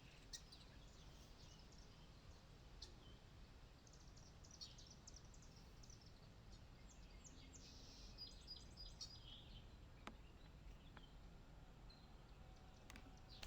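Faint, scattered bird chirps and short calls over steady low outdoor background noise, busiest about a third of the way in and again past the middle.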